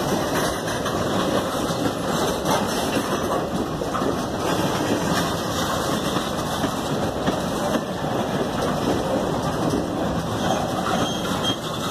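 Norfolk Southern freight train of tank cars rolling past: a steady rumble with the clatter of steel wheels on the rails.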